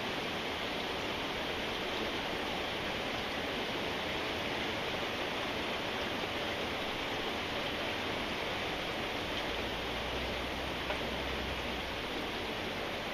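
Steady rain falling, a constant even hiss with no distinct drops or breaks.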